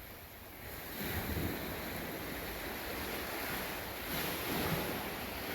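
Steady wash of ocean surf with some wind, no distinct events.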